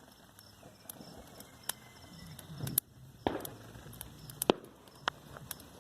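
Wood bonfire burning, crackling with scattered sharp pops, the loudest a little over halfway through.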